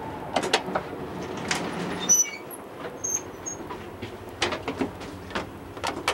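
Inside a moving passenger train car: the steady rumble of the running train, with scattered sharp clicks and knocks of the car rattling and a few brief high squeaks around the middle.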